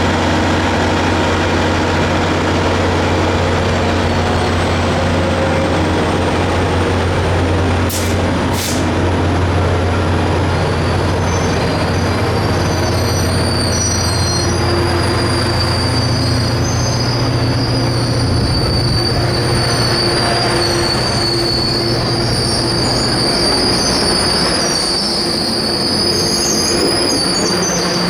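Caltrain diesel commuter train moving close by, its locomotive engine running with a steady low hum. Two short clicks come about a third of the way in, and from there the wheels squeal on the rails in a high steady whine that lasts to the end.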